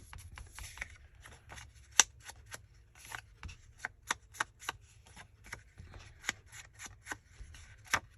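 Paper-craft handwork: a string of short sharp clicks and taps on paper, coming faster and more evenly, about three a second, in the second half, with soft paper handling between.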